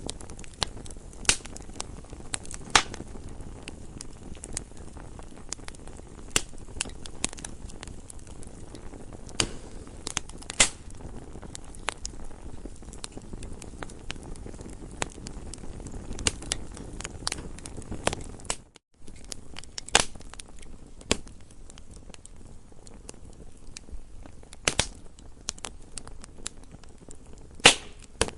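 Campfire crackling: a steady low rush of burning wood with frequent irregular sharp pops and snaps, one of the loudest near the end. The sound cuts out for a split second about two-thirds of the way through.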